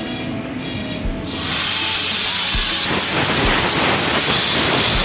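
Compressed air blasting through car air-conditioning parts: a loud, steady hiss that starts suddenly about a second in.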